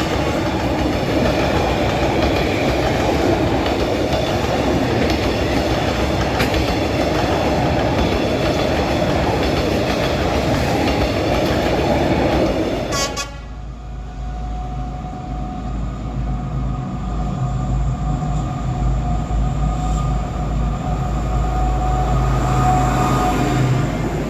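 A diesel train running past close by, with loud wheel and rail noise. About halfway through, the sound changes abruptly to a quieter, deep diesel rumble with faint steady horn-like tones that grow stronger near the end.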